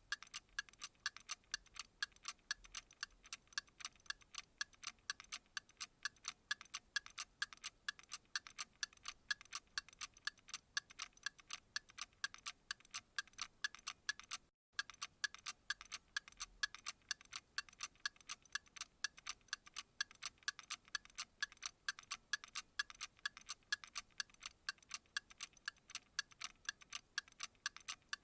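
Clock ticking steadily and rapidly, several ticks a second, with a brief dropout about halfway through.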